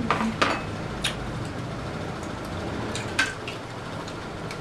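A few short clicks and knocks of utensils and dishes during eating, two close together at the start and another about three seconds in, over a steady low hum.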